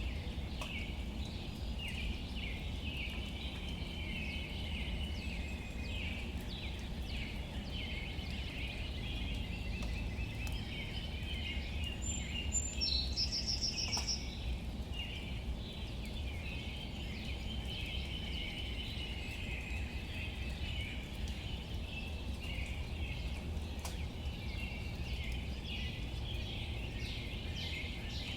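Outdoor nature ambience: a steady, dense chorus of small high chirps over a low rumble. One separate, higher trilled call stands out about thirteen seconds in.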